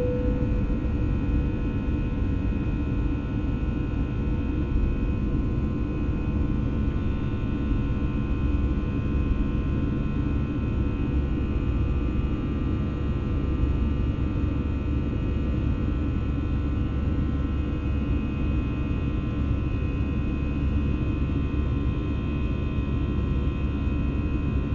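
Airbus A320 cabin noise: a steady, unchanging engine rumble and drone with several constant tones over it, heard from a passenger seat.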